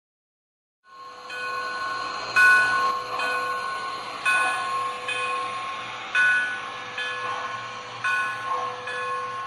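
Model steam locomotive's sound system playing train sounds: a steady whistle-like tone under regular accented beats about once a second, starting abruptly about a second in.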